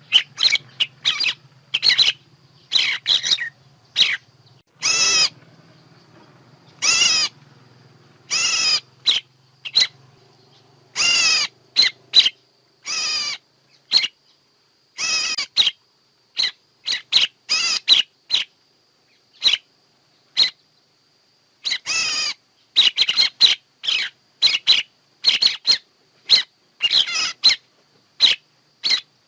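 Bird calls played as a lure for bird trapping: a fast, irregular run of short, sharp chirps mixed with longer wavering calls, thinning out for a few seconds around the middle.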